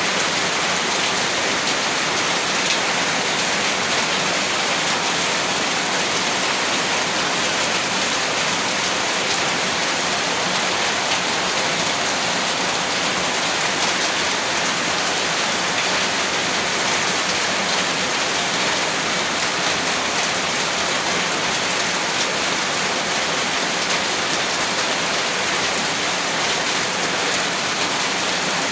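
Heavy rain falling steadily, a dense, even hiss of rain on surfaces that does not change.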